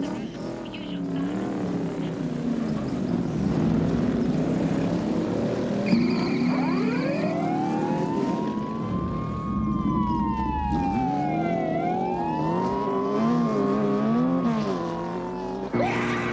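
Car engines running at high revs in a chase, their pitch wavering up and down, with a siren wailing up and down from about six seconds in.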